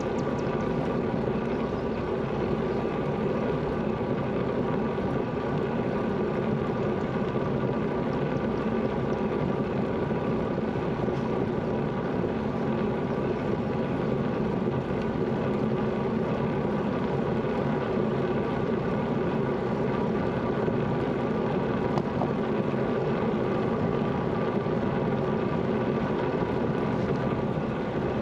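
A bicycle rolling steadily along a road: tyre noise and a constant hum with several steady tones, unchanging throughout.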